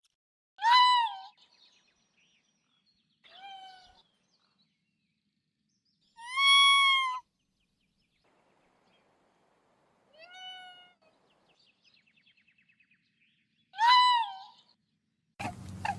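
A cat meowing five times, each a drawn-out call that rises and then falls in pitch, spaced about three to four seconds apart, with the second and fourth meows fainter than the others.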